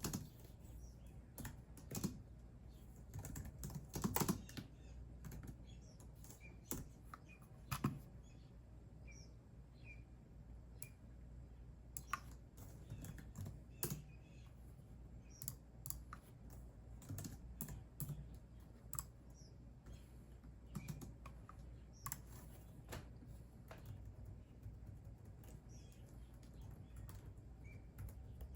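Computer keyboard typing: irregular runs of keystrokes with pauses, a few keys struck harder.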